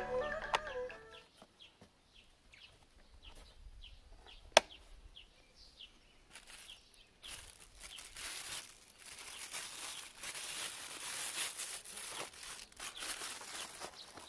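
Music fades out, then birds call with short falling chirps over and over. There is one sharp click about four and a half seconds in, and from about seven seconds a rustling hiss.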